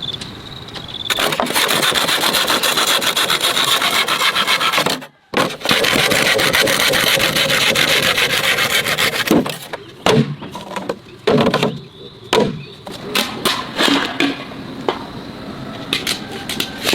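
Loud, continuous rasping scrape made of rapid fine strokes, breaking off briefly about five seconds in. Over the second half it gives way to a run of irregular knocks and clatters.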